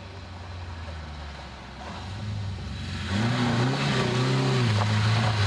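Rally car engine approaching, growing much louder about three seconds in, with the revs rising and falling under the throttle.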